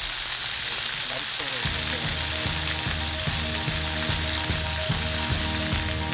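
Pork belly sizzling on a hot grill plate, a steady dense crackle. About a second and a half in, background music with a steady beat comes in under it.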